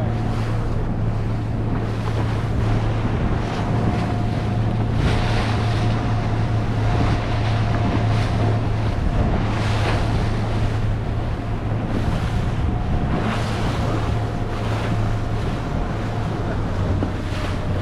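Motorboat engine running at a steady drone, with wind buffeting the microphone and water rushing past.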